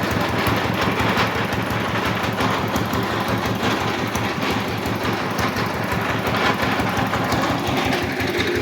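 Machine engine running steadily at an even, fast chug, just after being started.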